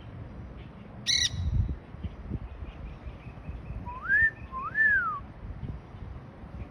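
Quaker parrots calling: one short harsh squawk about a second in, then two whistles a little over half a second apart, each rising and then falling in pitch.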